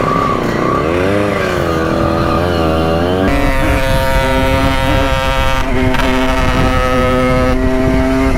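Simson moped two-stroke engine revving up and down for about three seconds, then running at a steady, even engine speed.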